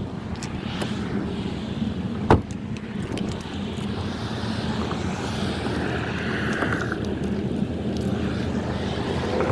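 Steady engine-like rumble, as of traffic or a running motor, with a single sharp click a little over two seconds in.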